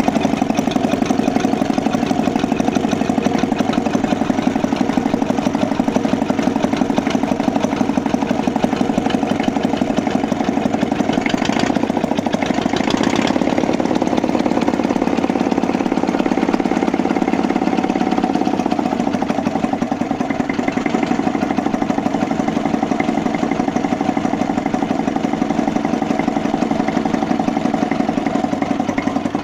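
1943 Victor 12 hp four-stroke diesel boxer engine running steadily with an even, rapid beat.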